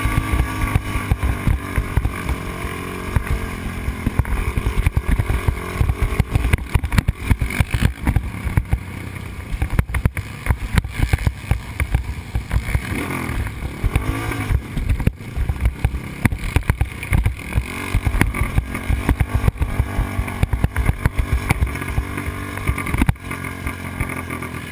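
Yamaha Raptor 250 quad's single-cylinder four-stroke engine running hard around a motocross track, the revs rising and falling as the rider works the throttle, with a clear swing in pitch about halfway through. Heard through a helmet camera, with wind buffeting the microphone.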